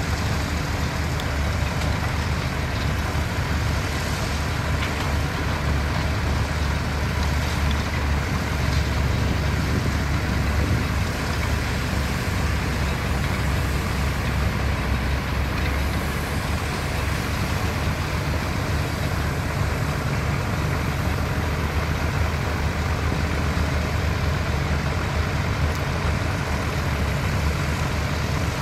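Heavy diesel engine of construction machinery running steadily, with a deep, even rumble and no marked revving or stops.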